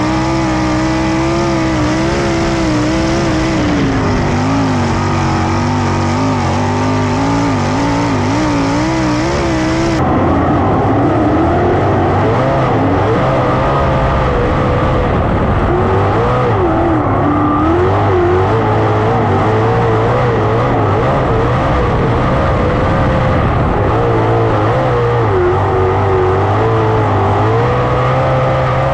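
410 sprint car engines running hard on a dirt oval, their pitch rising and falling as the throttle is worked on and off through the turns. The sound changes abruptly about ten seconds in, at a cut in the footage.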